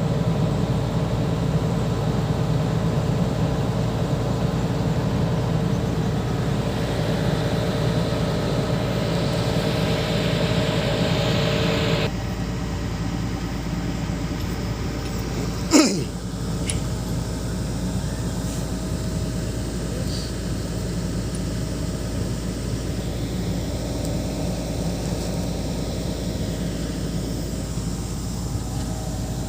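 Hitachi 210 excavator's diesel engine running steadily, dropping to a lower, quieter speed about twelve seconds in. A single sharp knock sounds a few seconds later.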